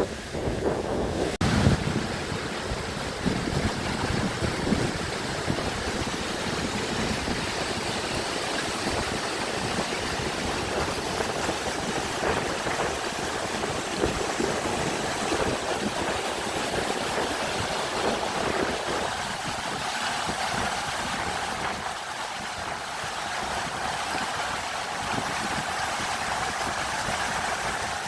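Waterfall rushing: a steady, even noise without a break. About two-thirds of the way through, the deeper part of the rush drops away.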